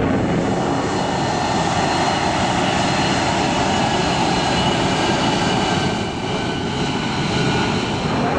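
Aircraft engines running at a steady drone, with a few faint steady high tones above it; the drone dips slightly about six seconds in.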